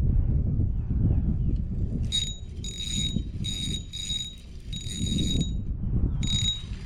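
A spinning fishing reel being cranked in several short spurts, its gears giving a high whir. Low wind rumble on the microphone runs underneath.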